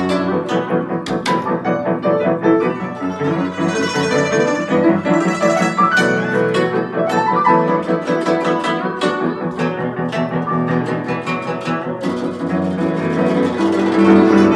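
Guzheng and piano playing a duet: a flowing passage of many quick plucked and struck notes over sustained piano harmony.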